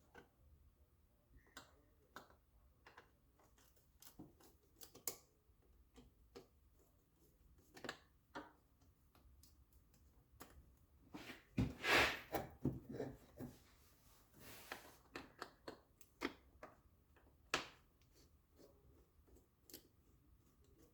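Scattered clicks and knocks of hand tools and engine parts as the intake is taken off an engine, with a louder clatter about twelve seconds in.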